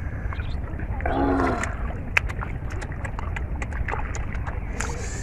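Shallow water splashing and sloshing as hands work through flooded paddy-field water, with a run of small sharp splashes in the second half. There is a short voice-like call about a second in over a steady low rumble.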